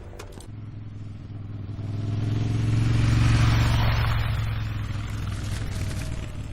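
Ducati Sport Classic motorcycle engine passing by, its sound swelling to a peak about three seconds in and then fading.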